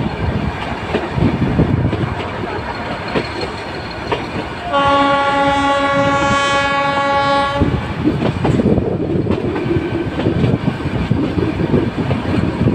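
Train running on the rails, a steady rumble with faint clickety-clack, and one steady horn blast of about three seconds starting about five seconds in.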